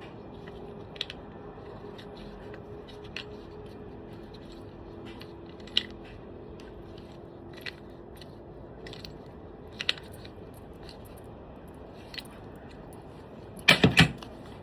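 Small metal clicks and taps of a hex key working the guard clamp screw on a Bosch 5-inch angle grinder, scattered every second or two over a faint steady hum, ending in a quick burst of three or four sharper, louder clicks.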